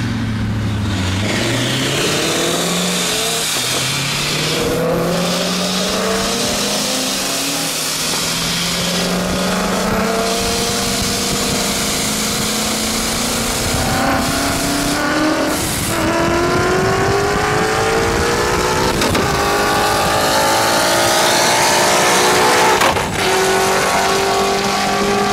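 Supercharged V8 of a 'catfish' (1998–2002) Chevrolet Camaro at full throttle, heard from inside the cabin during a 50–150 mph roll race. It climbs in pitch through each gear and drops back at several gear changes.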